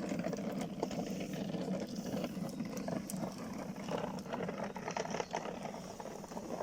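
Campfire sounds: a steady low rushing noise dotted with many small crackles and pops.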